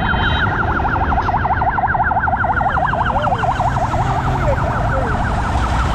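Emergency-vehicle siren in a fast yelp, its wail sweeping rapidly up and down several times a second and fading away over the last couple of seconds, over the steady rumble of motorcycle and street traffic.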